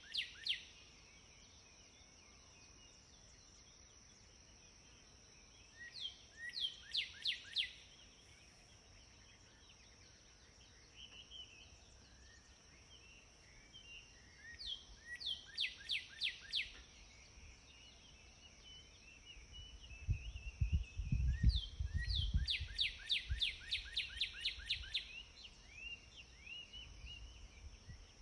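A songbird singing: phrases of quick falling notes repeated every six to eight seconds, the last phrase longer, over a steady high-pitched hiss. A low rumble comes in about two-thirds of the way through.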